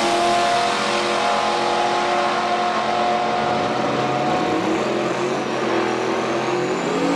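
A loud drag car's engine running at low speed, its pitch wavering slightly and rising a little near the end.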